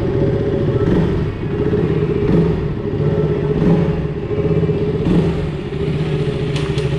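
Motorcycle engine running steadily, its note swelling slightly a few times.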